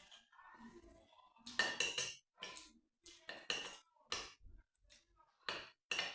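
Cutlery clinking and scraping against dishware during a meal: a run of short, sharp sounds about a second apart, busiest from about a second and a half in.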